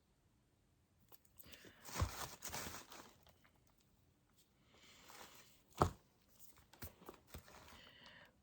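Objects being handled and set down on a work surface: rustling with a knock about two seconds in, a sharper knock near six seconds, then a few small clicks.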